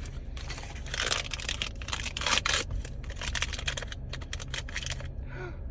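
Thin plastic wrapping on a Mini Brands miniature being crinkled and torn open by hand, in irregular bursts with quick crackling clicks, easing off near the end.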